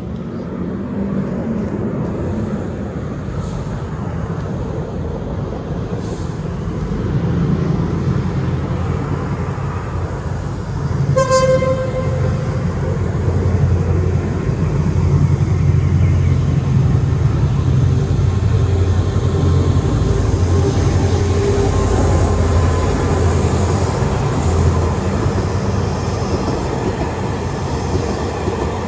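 Diesel passenger train approaching and passing with a low engine rumble. About eleven seconds in it gives one short blast of its horn, and the train then runs past loudly.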